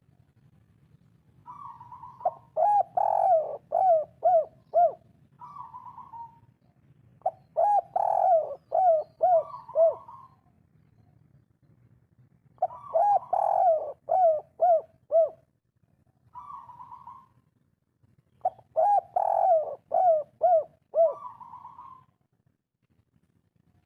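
Spotted dove (derkuku) in full song, giving the 'kuk 3' call: four cooing phrases about five seconds apart. Each phrase opens with a softer note and runs into a quick string of falling coos.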